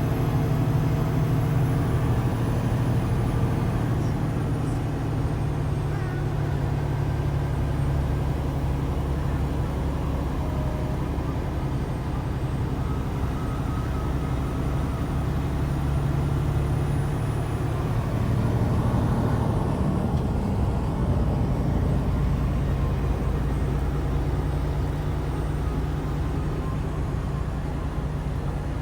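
Truck engine running steadily while driving, a low drone with road noise.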